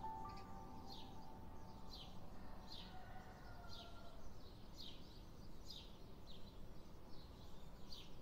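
A bird calling over and over, a short falling note about once a second, faint against a quiet outdoor background.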